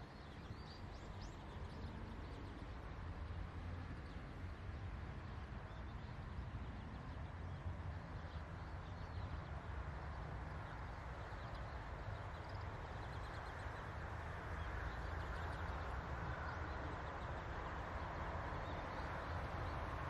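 Outdoor field ambience: a steady low rumble and hiss, with faint, thin, short high calls here and there from a feeding flock of black-faced buntings.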